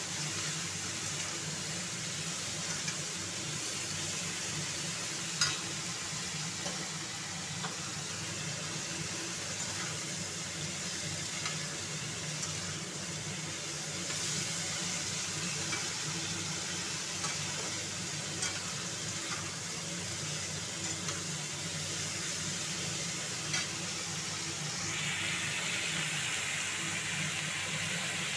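Amaranth stems and potatoes sizzling as they fry in oil in a metal kadai, with a metal spatula scraping and knocking against the pan now and then, one knock sharper about five seconds in. A steady low hum runs underneath.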